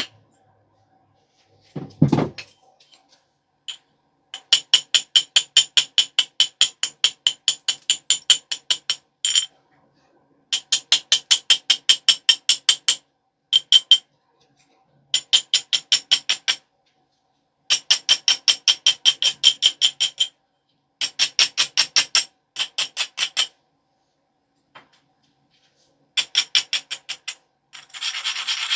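Flint biface edge being abraded with quick back-and-forth strokes of an abrading stone, about six strokes a second, in short runs with pauses between; the scraping has a slight ringing edge. A low knock comes about two seconds in, and near the end the rubbing turns continuous.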